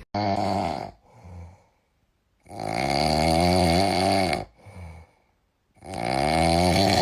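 Loud snoring: three long snores about two seconds apart, with quieter breaths between them.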